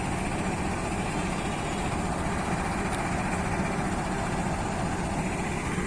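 Diesel train locomotive idling while the train stands waiting, a steady engine drone that does not change.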